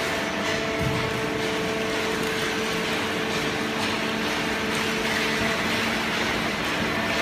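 Baler conveyor belt and its machinery running steadily: an even mechanical rush with a constant hum of several tones.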